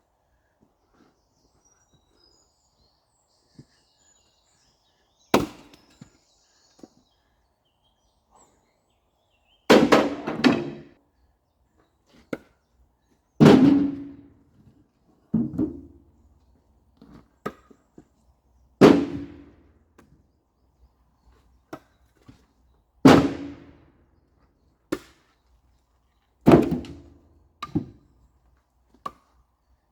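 Heavy wooden thunks from firewood work, logs being struck or dropped: about eight blows a few seconds apart, each with a short ringing tail, some followed at once by a smaller knock.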